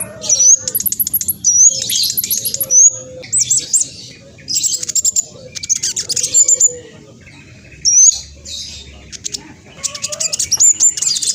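Black sunbird (kolibri blacksunbird trotol) singing a fast, busy song of sharp high chirps, quick whistled notes and rapid trills, broken by short pauses.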